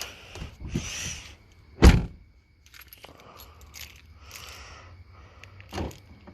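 Handling noises with rustling and light clinking, a heavy thump about two seconds in and a lighter knock near the end.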